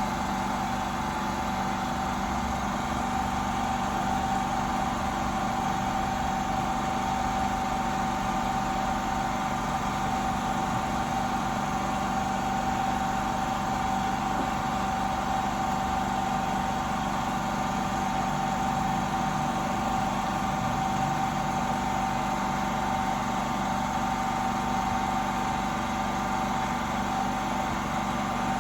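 A steady machine hum with a constant mid-pitched whine, unchanging throughout.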